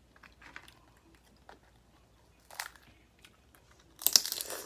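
Close-miked mukbang eating sounds from a crawfish boil: scattered soft mouth clicks and smacks, a brief crackle midway, then a louder dense crackling and crunching burst near the end as shells and food are handled.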